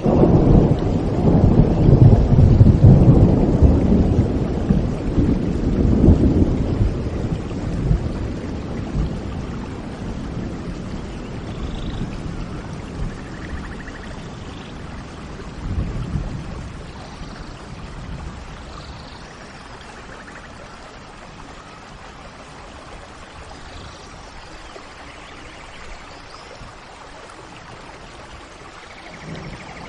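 Steady rain falling with a long rolling rumble of thunder over the first several seconds that slowly fades, and a shorter rumble about halfway through. Faint bird chirps are heard above the rain.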